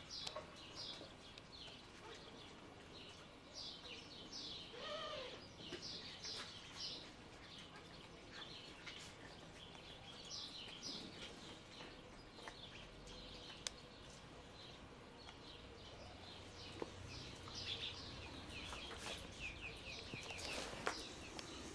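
Faint small birds chirping, in clusters of quick falling chirps over a low hum of background noise.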